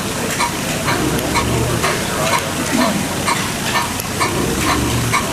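Hit-and-miss engine running: steady clicking at two to three a second, with a low firing thump swelling about every three seconds as it hits and then coasts.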